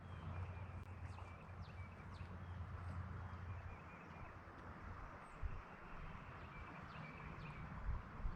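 Faint outdoor ambience: a steady low rumble and hiss with scattered short bird chirps, and a couple of soft low knocks.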